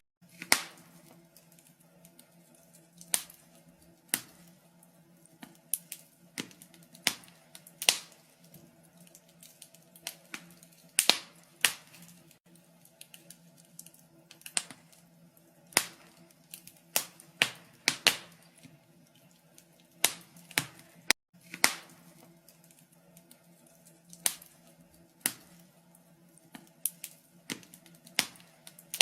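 Wood fire crackling in a fireplace: irregular sharp pops and snaps, one to three a second, over a faint steady low hum.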